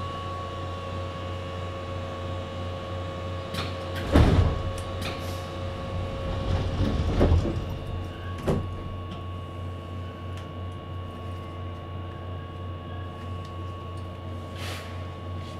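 Keihan 8000-series electric train, heard from inside the car: a steady low hum with a faint high whine, broken by a few heavy clunks about four, seven and eight and a half seconds in.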